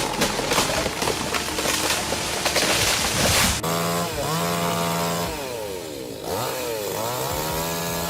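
Chainsaw engine revving up and down repeatedly, its pitch swooping and climbing. It is preceded, for the first few seconds, by a dense noisy stretch of sharp crackling hits.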